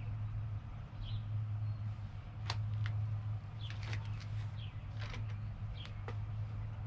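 A handful of sharp clicks and taps from parts being handled, from about two and a half to six seconds in, over a steady low hum.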